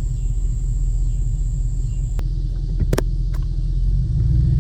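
Car engine and road rumble heard from inside the moving vehicle, with a few sharp clicks or knocks about two to three seconds in; the engine gets louder near the end.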